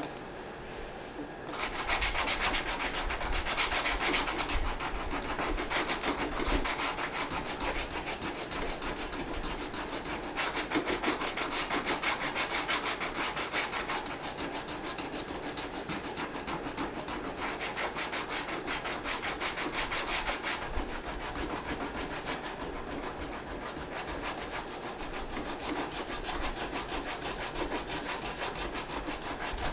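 A suede eraser rubbed rapidly back and forth over a sneaker's suede upper to soften it, a dense scratchy scrubbing that starts about a second and a half in and goes on without pause.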